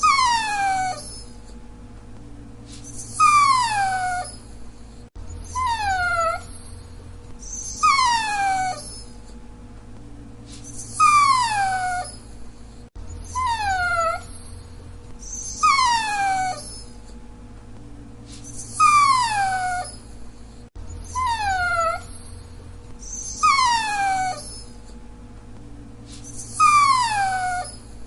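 Dachshund whining: a long run of high, falling whines, each about a second long, one every two to three seconds.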